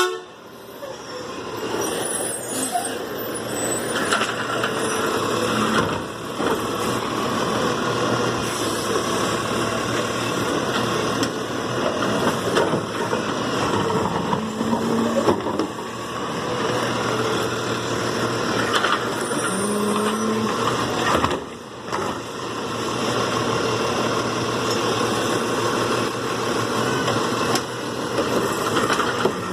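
Garbage truck running, a steady engine and mechanical noise with a few short low notes now and then.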